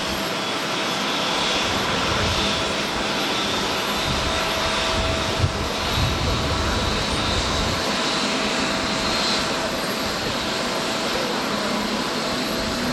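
Jet engines of an ANA Boeing 787-10 during its landing: a steady rushing noise with a steady whine through it. Strong gusty wind rumbles on the microphone underneath.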